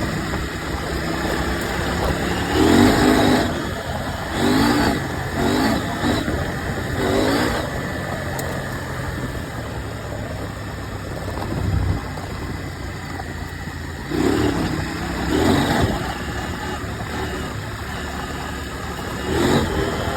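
KTM 790 Adventure's parallel-twin engine running under way, with about seven short bursts of louder engine note as the throttle is opened and closed.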